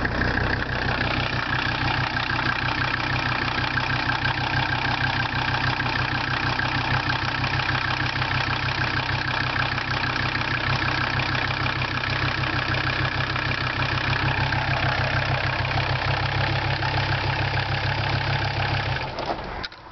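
1985 Mercedes 300SD five-cylinder turbo diesel idling steadily, cold and without glow plugs, after sitting for a couple of months. It is shut off and stops abruptly about 19 seconds in.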